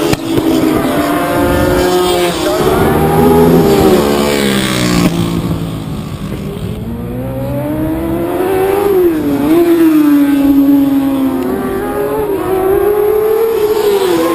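Racing motorcycle engines revving hard, their pitch rising and falling as the bikes accelerate, shift and slow for corners. The sound eases a little about six seconds in, then builds again, with a sharp drop and climb in pitch about nine seconds in.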